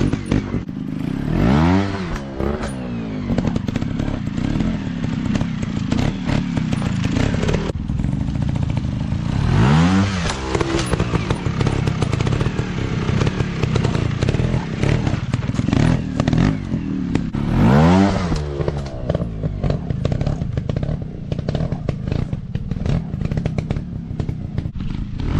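Dirt bike engines running off-road with a constant clattering rattle, revving up sharply three times, about eight seconds apart, the pitch rising with each rev.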